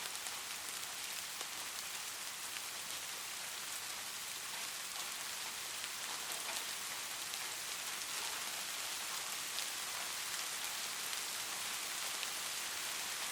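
Steady light rain: an even patter of many small raindrops falling on a surface, with fine individual drop ticks throughout.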